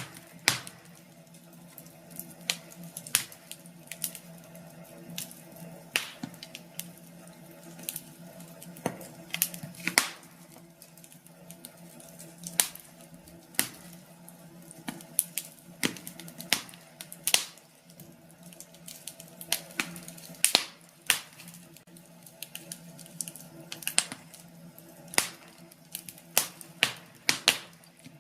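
Wood fire crackling in a fireplace: irregular sharp pops and snaps, sometimes in quick clusters, over a steady low hum.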